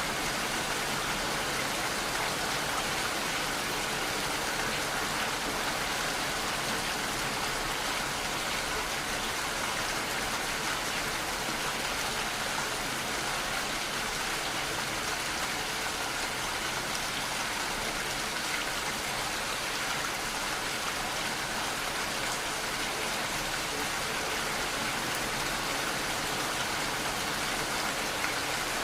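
Steady rainfall, an even hiss of rain with no thunder or other events.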